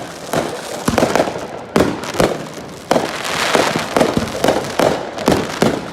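A fireworks display going off: a quick, irregular series of about a dozen loud bangs, with crackling in between.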